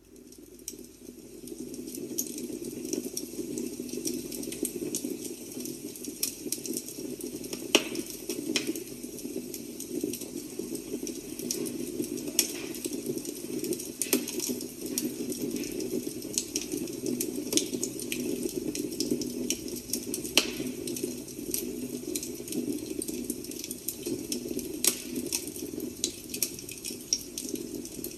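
Recorded fireplace ambience played through an Amazon Echo Spot's speaker: a steady rush of burning wood with many scattered sharp pops and crackles. It fades in over the first two seconds.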